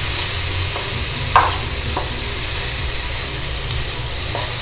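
Onion and tomato-sauce masala sizzling in oil in a stainless steel kadai while a steel slotted spoon stirs it, with a few brief scrapes of the spoon on the pan. The masala is cooked down until the oil separates.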